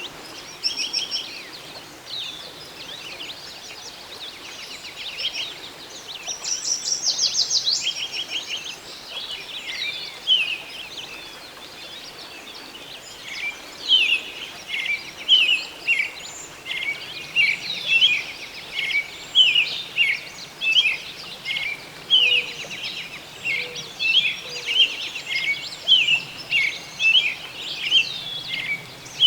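Songbirds singing and calling over a steady faint hiss: a fast trill about six to eight seconds in, then from about fourteen seconds on a short call repeated about once a second.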